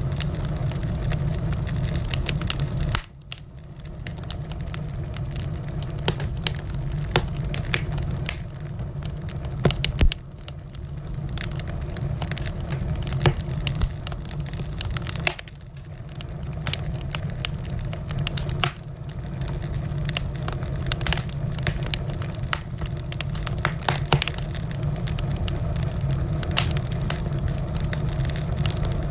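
Wood fire in a fireplace crackling, with frequent sharp pops and snaps over a steady low rumble. The rumble drops away suddenly a few times and swells back.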